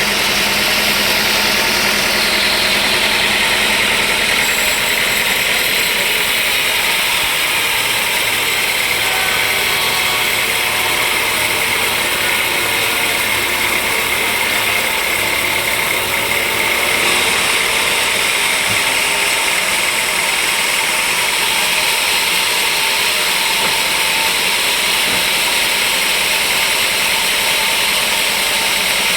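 Sawmill machinery running steadily, a loud even noise without a break.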